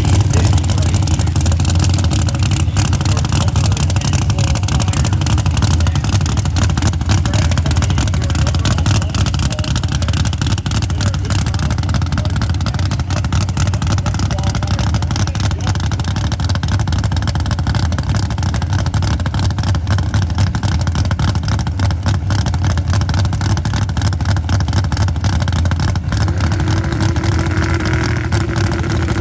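Motor vehicle engine running at a steady low drone with an even, fast pulsing, holding roughly the same speed and loudness throughout.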